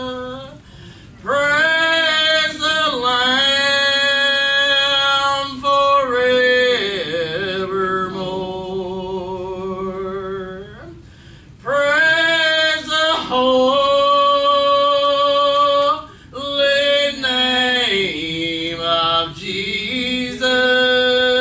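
A voice singing a slow gospel song, holding long notes with vibrato and pausing briefly between phrases.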